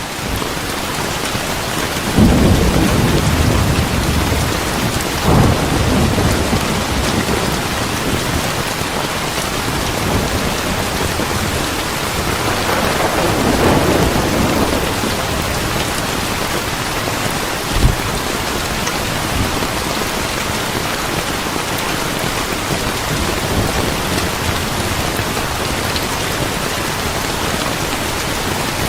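Steady heavy rain with thunder rumbling low several times, strongest about two seconds in and again near the middle, and one sharp crack a little past halfway.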